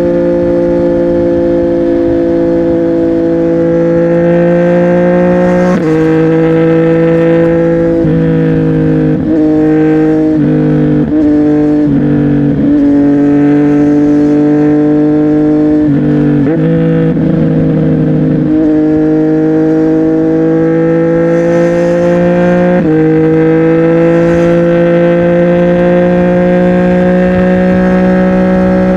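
CFMOTO 675NK's three-cylinder engine through a Burnout titanium aftermarket exhaust, heard while riding. The engine note climbs slowly and drops sharply at each gear change or throttle lift, with a cluster of quick dips and rises in the middle.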